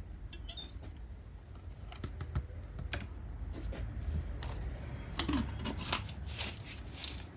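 Light, irregular taps and clicks of a paintbrush dabbing paint onto the painting, over a low steady hum.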